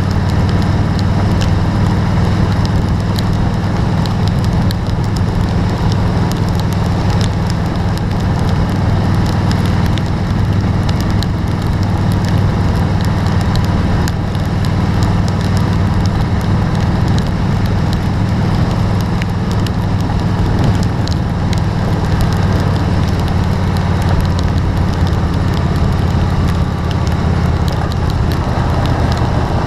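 Steady low rumble of a vehicle on the road, heard from inside, with rain crackling and ticking on the body and windshield.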